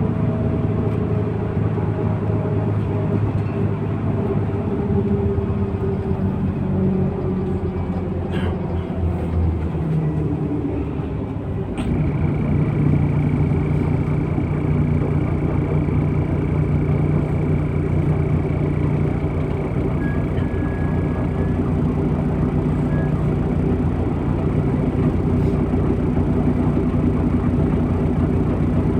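MAZ-103 city bus's diesel engine heard from the passenger cabin, its pitch falling over the first twelve seconds as the bus slows. About twelve seconds in there is a sharp click, and the engine settles to a steady idle with a thin high tone over it for about nine seconds.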